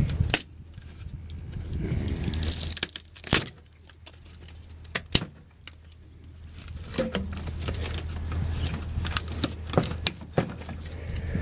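Scattered sharp cracks and snaps with crinkly tearing and rustling as plywood, foam and hole filler are pulled and broken away by hand, over a steady low hum.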